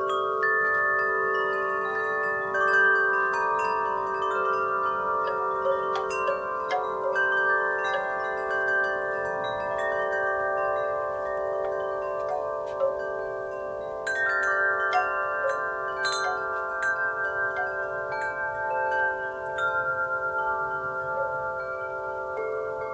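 Wind chimes ringing in a breeze: metal tubes struck at irregular moments, their overlapping tones ringing on and on, with a busier flurry of strikes partway through.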